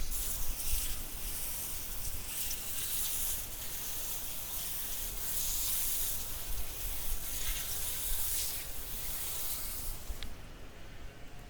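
Water spraying from a hose onto freshly scaled bream, rinsing off the loose scales: a hiss that swells and eases in waves, then cuts off near the end.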